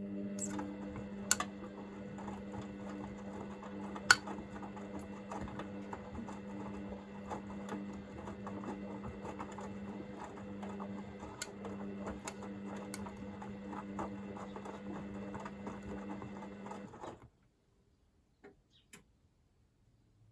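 Hoover VisionDynamic washing machine tumbling its drum during the heated wash phase: a steady motor hum with scattered sharp clicks. About seventeen seconds in the drum stops, and it goes almost silent apart from a couple of faint ticks.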